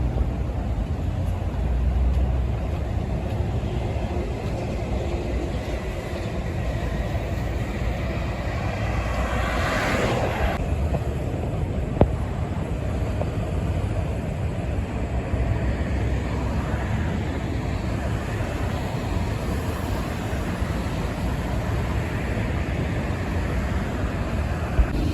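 Highway traffic: a steady rumble of truck engines and tyres on the road. One pass swells louder about ten seconds in, then drops away abruptly. There is a sharp click about twelve seconds in and another near the end.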